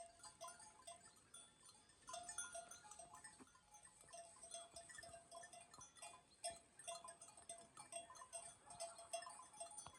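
Faint livestock bells clinking irregularly, many small rings at much the same pitch, as from a grazing flock.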